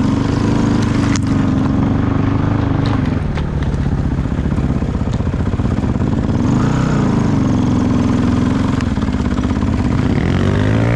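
Off-road vehicle engine running while riding. Its pitch holds steady, rises and falls briefly past the middle as the throttle changes, and climbs again near the end. A few sharp knocks or rattles come in the first few seconds.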